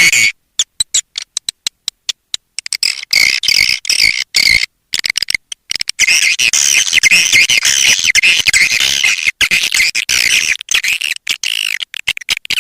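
Swiftlet calls played as a lure track to draw swiftlets into a nest house: rapid, dense twittering chirps. They come in choppy bursts with short gaps at first and run almost without a break from about halfway on.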